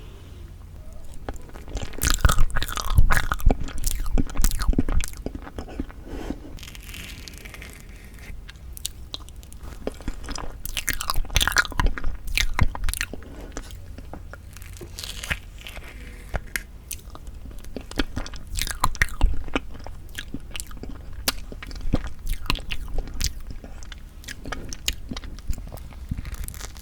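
Close-miked mouth sounds of someone eating tofu tiramisu: chewing with wet clicks and smacks that come in several bouts, with quieter pauses between them.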